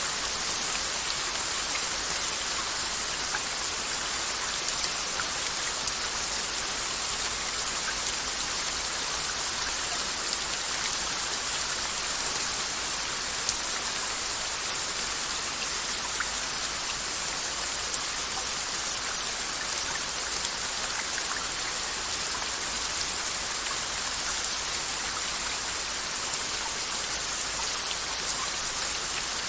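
Steady rain: a constant, even hiss with scattered small drop ticks.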